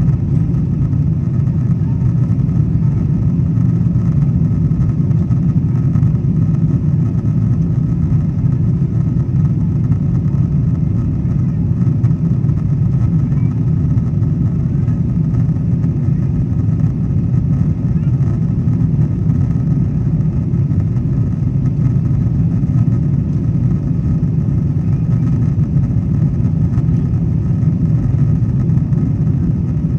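Steady, loud cabin rumble of a Boeing 777-200ER in the climb after takeoff, heard from an economy seat. Its engines and the rushing air blend into an even low drone.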